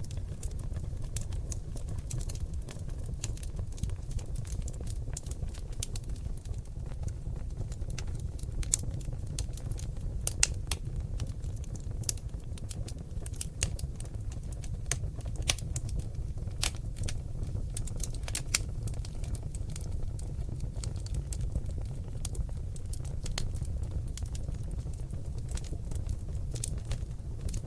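Seasoned oak logs burning in a fireplace: frequent sharp crackles and pops, busiest in the middle, over a steady low rumble of the flames.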